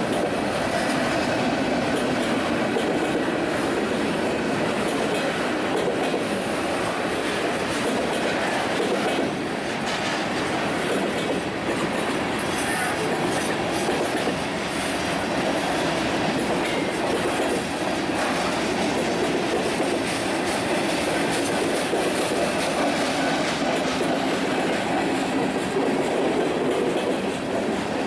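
A train rolling past on the rails: steady wheel-and-rail noise with clickety-clack from the cars going over the rail joints.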